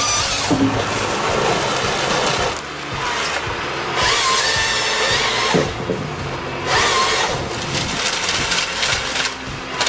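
A power saw cutting through wood in loud surges that rise and fall every second or two, with background music.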